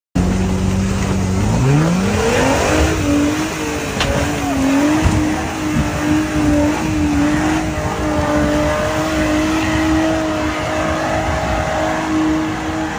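Logging truck's engine revving up about a second and a half in, then running steadily at high revs over constant road noise. A single sharp click about four seconds in.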